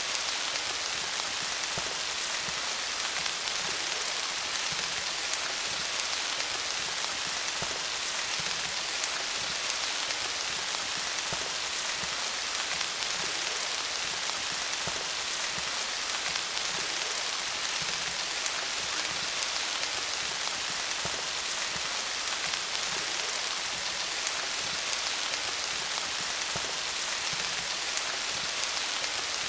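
Steady rain falling on leaves, a dense patter of countless small drops with no letup.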